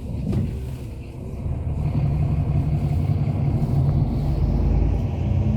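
Hyundai Universe Space Luxury coach's diesel engine running, heard from inside the cabin. It gets louder about a second and a half in, and a faint rising whine comes in near the end.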